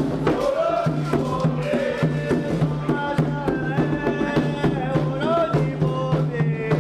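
Candomblé xirê music: a group of voices singing a chant over hand drums and regular percussion strokes.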